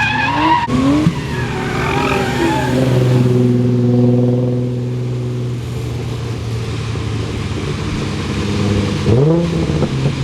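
Nissan R32 Skyline drift car's engine revving. The revs climb in short pulls, hold a steady note for a few seconds, then rise quickly again near the end.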